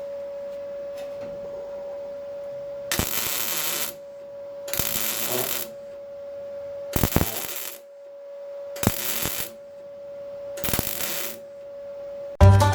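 MIG welder laying tack welds on a steel repair panel: five short bursts of arc crackle, each about a second long and roughly two seconds apart, over a steady faint hum. Background music starts near the end.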